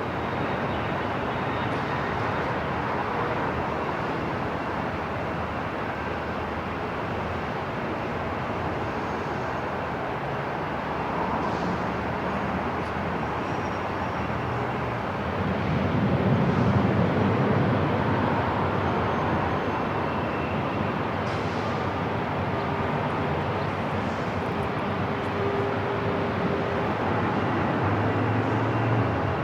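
Airport ambience: a dense, steady wash of rumble and hiss. A low rumble swells for a few seconds just past the middle, then settles back.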